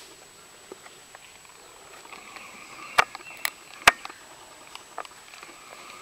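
Airsoft gun shots: a few sharp, dry cracks, the two loudest about a second apart about three seconds in, with fainter clicks before and after.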